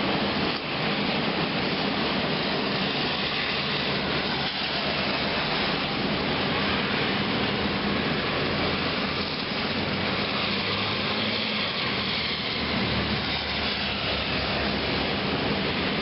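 Heavy rain and wind of a severe thunderstorm, a steady rushing noise with no letup.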